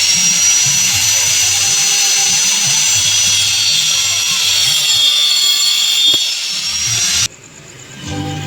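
Electric power tool running at high speed with a steady high-pitched whine that dips slightly in pitch in the middle, then cuts off suddenly about seven seconds in.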